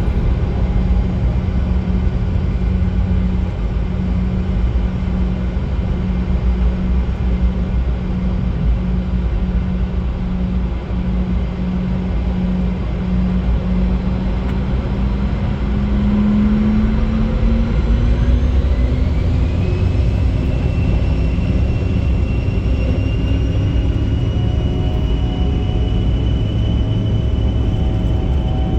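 A CRJ-200's twin GE CF34 turbofan engines running with a steady low rumble, then spooling up: from about fourteen seconds in, a whine climbs sharply in pitch over a few seconds and keeps rising slowly toward the end as the engines come up to takeoff power.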